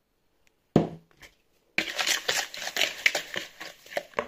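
A single knock against a bowl, then about two seconds of rapid, irregular clattering as eggs and sugar are beaten by hand in a bowl.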